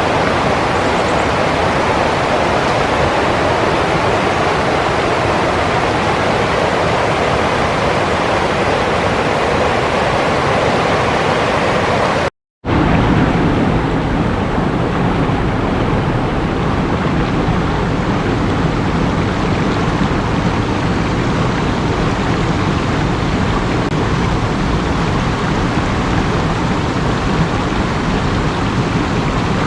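Running water, a loud, steady rush. About twelve seconds in it cuts out for a moment and returns as a different stretch of water with a deeper, heavier rush.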